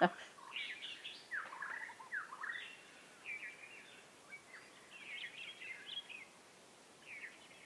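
Small birds singing in short, quick chirping phrases over a faint steady background, with a last brief phrase near the end.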